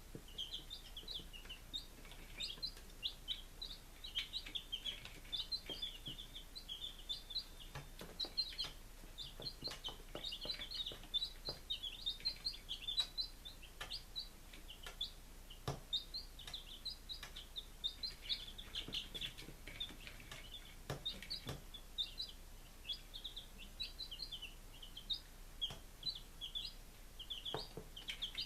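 A group of five-day-old chicks peeping without pause, many quick high peeps overlapping one another, with scattered light taps among them.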